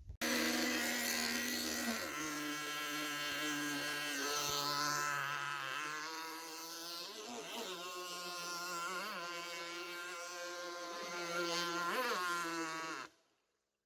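Small nitro glow engine of an RC jet-ski running at high revs with a steady buzz, its pitch wavering up and down a few times. The sound cuts off suddenly near the end.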